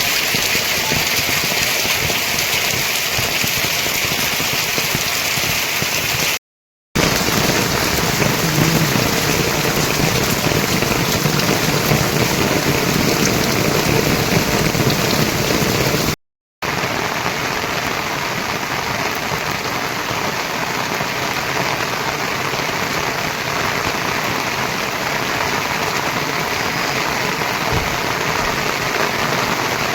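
Steady rain falling, an even hiss of drops, cut into three stretches by two brief moments of dead silence, about a fifth of the way in and just past halfway.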